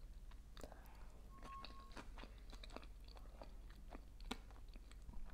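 Close-miked chewing of a soft boiled potato dumpling: faint, irregular wet mouth clicks. A brief faint steady tone sounds about a second in.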